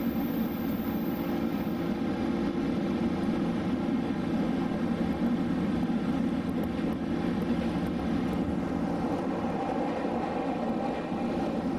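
Electric commuter train running at a steady speed, heard from inside the carriage: an even, unbroken rumble of the moving train.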